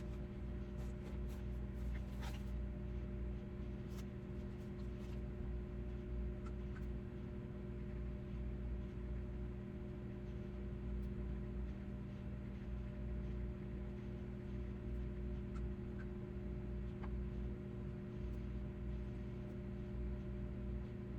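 Steady low electrical hum, with a few faint clicks in the first five seconds and a couple more later on.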